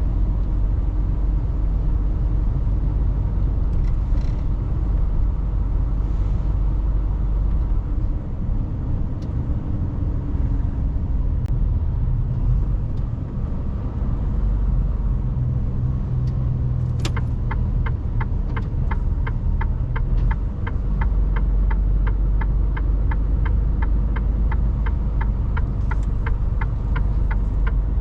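Mercedes Actros truck's diesel engine running with a steady low rumble in the cab. About two-thirds of the way in there is a sharp click, then a quick even ticking of about three ticks a second, like the turn-signal indicator.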